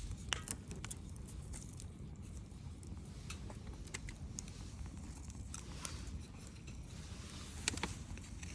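Wood fire crackling, with irregular small pops and snaps over a low steady rumble. One sharper snap comes near the end.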